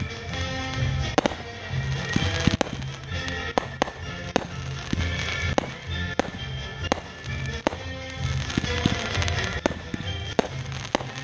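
Fireworks going off in a rapid string of sharp bangs and crackles, over music playing with a pulsing bass.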